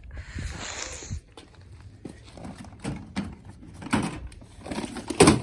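Goods being handled and set down: a scraping rustle for about a second, then a series of irregular knocks and clunks, the loudest just before the end.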